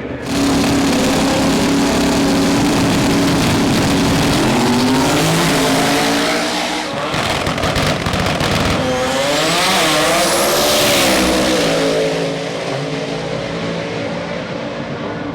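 Twin-turbo big-block Ford V8 in a 1967 Mustang fastback running hard on a drag strip. Its note holds steady for a few seconds, then rises and wavers in pitch, and eases off after about twelve seconds.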